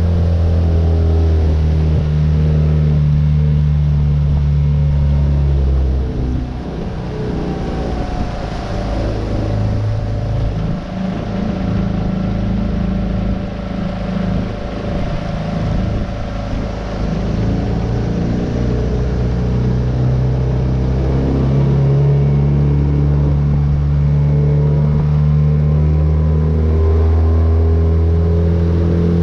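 Tohatsu 9.8 hp four-stroke outboard motor running steadily under way on a small V-bottom boat. For several seconds in the middle the engine note weakens and wavers, then returns to its full steady drone.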